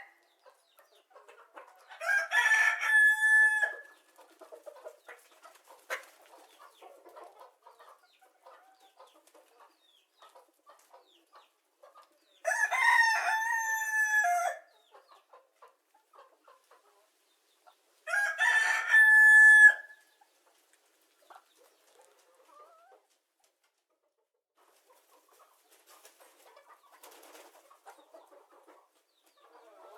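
Rooster crowing three times, each crow about two seconds long and ending on a held note, with quiet gaps between.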